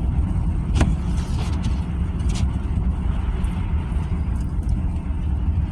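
Road and engine noise inside a moving car's cabin on a slick winter road: a steady low rumble, with a faint click about a second in and another a little after two seconds.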